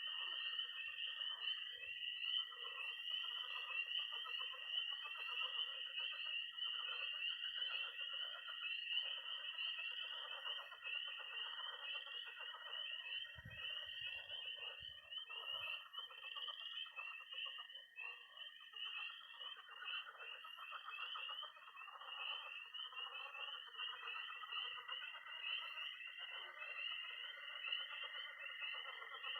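Night chorus of frogs and toads. Dense, high peeping of spring peepers sits over a continuous high-pitched toad trill, with lower croaking and pulsing calls of pond frogs underneath, steady throughout.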